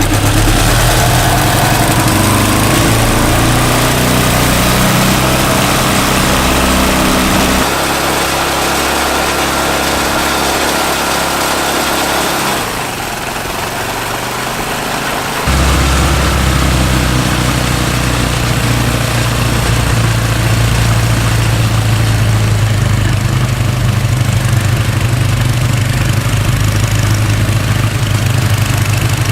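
Briggs & Stratton 4 hp single-cylinder engine on a snowblower running just after a cold start. Its note shifts about eight seconds in, drops away briefly a little before halfway, and comes back strong about fifteen seconds in.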